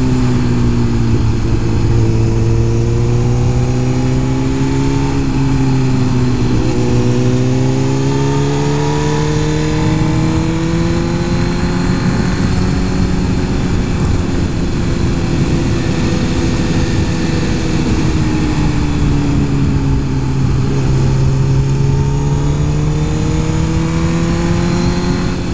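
Superbike-spec Suzuki GSX-R 1000's inline-four engine running under way at steady throttle. Its note falls and rises gently several times, with no sharp revs, over a steady rush of wind noise.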